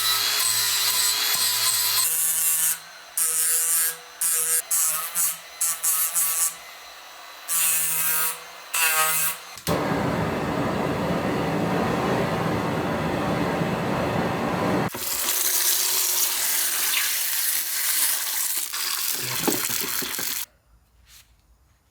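Power tools working a metal gear stick, heard in several separate stretches: a steady run for about two seconds, then a run of short stop-start bursts, then two long passes of dense, even grinding noise that cut off abruptly near the end.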